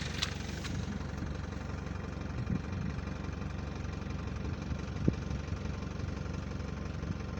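Vehicle engine running steadily, with a single light knock about five seconds in.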